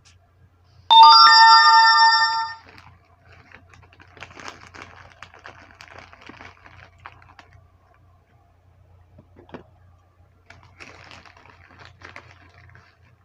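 A loud electronic chime of several steady tones sounds about a second in for under two seconds and cuts off sharply. Afterwards come faint rustling and light clicks, twice, over a low hum.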